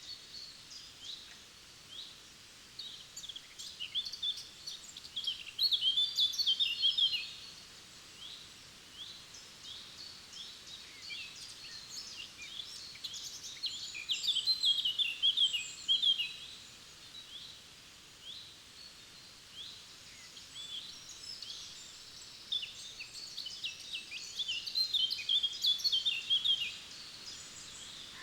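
Forest songbirds singing: one bird repeats a rapid, high song phrase of about two to three seconds three times, roughly every nine seconds, with scattered chirps from other birds between.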